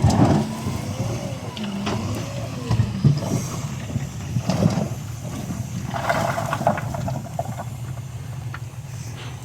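Heavy diesel construction machine running steadily, with clanks, knocks and squeals from its moving metal parts over the engine note.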